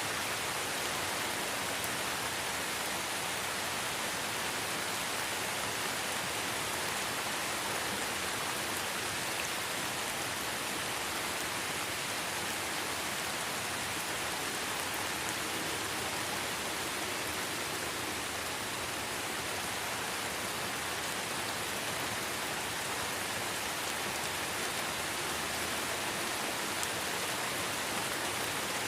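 Light rain falling steadily in a forest, an even hiss of many drops with no change in strength.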